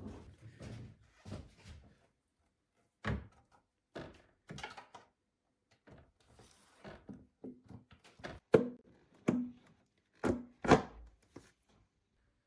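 Irregular knocks and clunks of tools and parts being handled and set down, some with a short ring, the two loudest about eight and a half and eleven seconds in.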